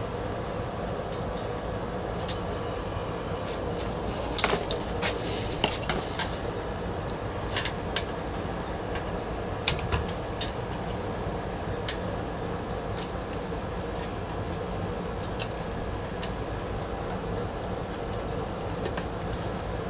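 Small metal parts and tools clinking and clattering now and then as they are handled, over a steady background hum.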